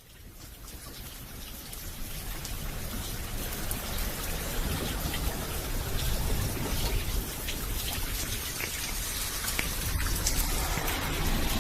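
Rain falling steadily, with individual drops ticking on a surface, fading in over the first few seconds.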